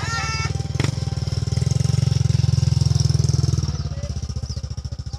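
Small motorcycle engine labouring at low speed through mud, its fast firing beat louder in the middle and easing off near the end. A short high-pitched sound comes right at the start.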